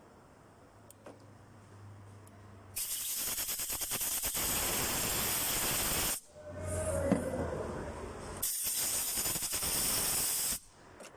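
Two long bursts of hard spray hissing, the first about three seconds long and the second about two, with a rougher, quieter stretch between them.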